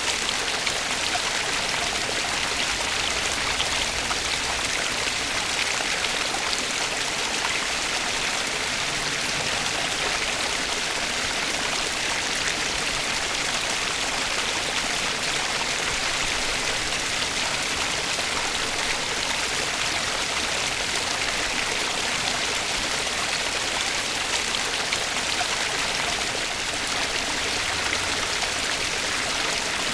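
Flowing stream water rushing steadily and evenly, with no change in strength.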